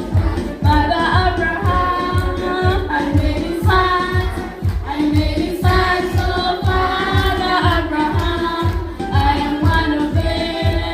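Choir singing in several voices over a steady low beat of about three pulses a second.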